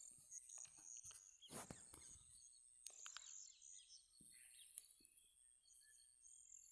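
Near silence: faint background hiss with a few faint ticks and high chirps.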